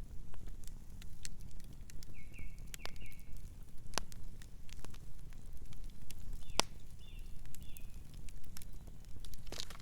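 Campfire burning with irregular crackles and sharp pops over a soft low rumble, the strongest pops about four seconds and six and a half seconds in.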